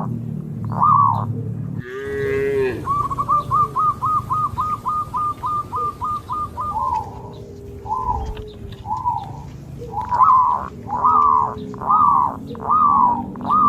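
A cow mooing once, briefly, about two seconds in, over a steady pattern of high, repeated chirping calls: first a quick run, then slower, evenly spaced calls.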